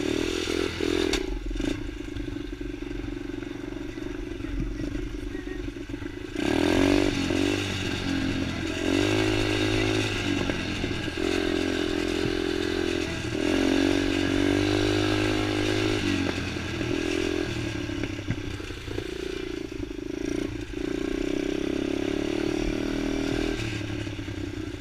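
Motocross bike engine running as it is ridden, its pitch repeatedly climbing and dropping off. It is quieter for the first few seconds, then louder from about six seconds in.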